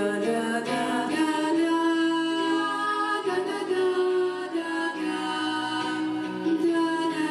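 Music: a small group of female voices singing long held, wordless notes in harmony.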